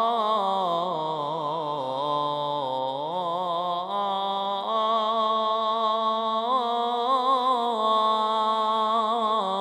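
A male reciter's voice chanting an Islamic ibtihal. He draws out one long, ornamented melisma without words, the pitch wavering and gliding: it sinks low about two to three seconds in, then climbs and holds higher for the rest.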